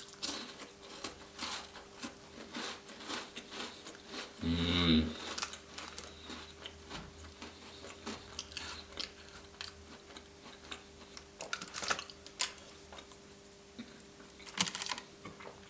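Close-up chewing and crunching of Tim Tam chocolate biscuits: many short, irregular crunches of the biscuit being bitten and chewed. About four and a half seconds in there is a brief voiced sound from the eater.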